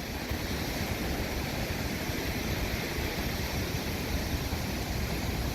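Floodwater rushing through a whitewater kayak course in a steady, unbroken roar, the river running far above its usual level, with some wind on the microphone.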